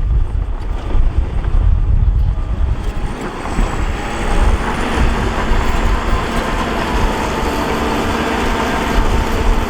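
Heavy diesel earthmoving machinery working: a loud, deep engine rumble, with a steadier engine drone coming in about four seconds in.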